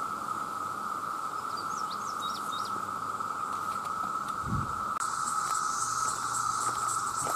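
Dense chorus of cicadas, a steady even drone. About five seconds in, a higher, rapidly pulsing insect call joins, and a few short chirps come earlier.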